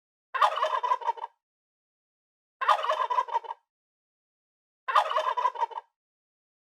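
A bird's rattling call given three times, each about a second long and closely alike, with dead silence between them.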